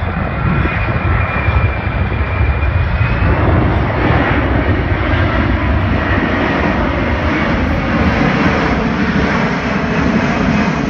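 Airplane engine noise from an aircraft flying past at an airshow, loud and continuous, growing fuller a few seconds in and then holding steady.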